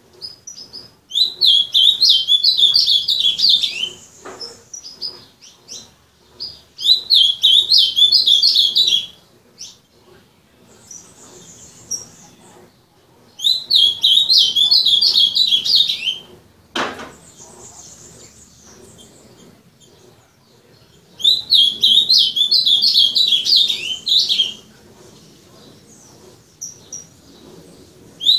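Ultramarine grosbeak (azulão) singing: four fast, warbled song phrases of about three seconds each, separated by pauses of several seconds. A single sharp knock comes a little past the middle.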